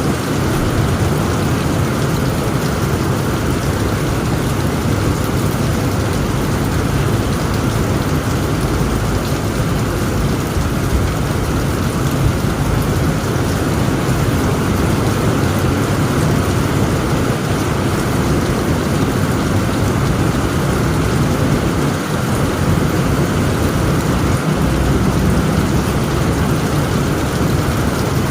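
Heavy rain pouring steadily on a tent roof, over a continuous deep rumble of thunder.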